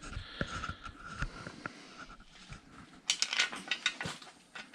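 Hand ratchet wrench clicking in a quick run about three seconds in as a bolt is run in, after a few light metal clinks and taps.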